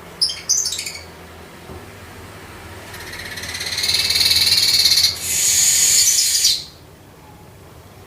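Streaked weaver singing. A few sharp chips come first, then a buzzy rattling song that swells from about three seconds in, and after a brief break a higher hissing buzz ends it near the end.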